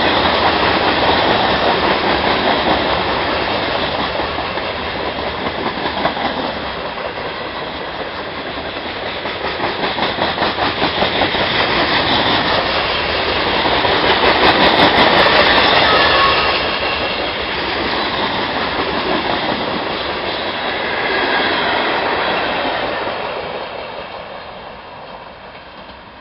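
Freight cars of a gravel train rolling past slowly, their wheels clicking over the rail joints in a steady clickety-clack. The sound fades away over the last few seconds as the train moves off.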